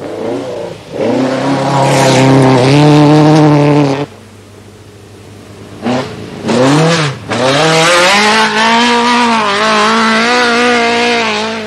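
Nissan dirt-trial cars' engines revving hard on a loose dirt course: one car at high revs for a few seconds, cut off suddenly, then after a quieter gap a second engine whose pitch dips and climbs back about seven seconds in before holding steady at high revs.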